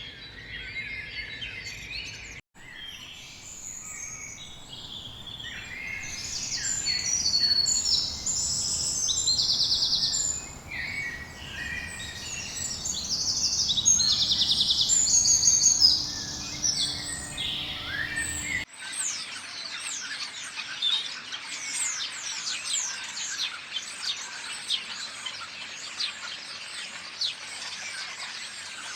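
Bird calls from several spliced recordings that change abruptly about 2.5 and 19 seconds in. The loudest stretch, in the middle, is a series of harsh, buzzy chattering calls. After that comes a dense chorus of rapid high chirps.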